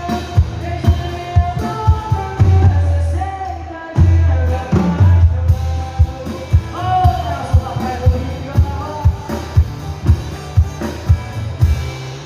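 Band music playing a song, with a steady drum beat of about two hits a second under a sustained, sliding melody line.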